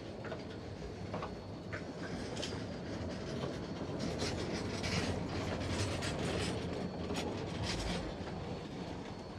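No. 40 steam locomotive and train rolling along the track: a steady rumble with irregular sharp wheel clicks over the rails, busiest and a little louder in the middle.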